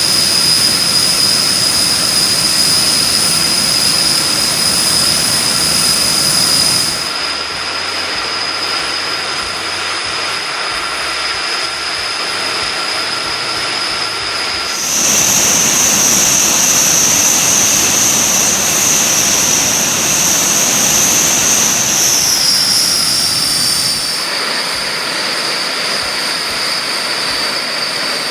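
Jet aircraft engines running, a steady roar under a high, steady turbine whine. The loudness and the pitch of the whine jump abruptly several times.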